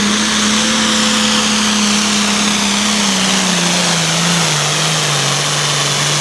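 Modified diesel farm tractor at full throttle pulling the weight sled. The engine note holds steady, then sags lower in pitch about three to four seconds in as the sled loads it down.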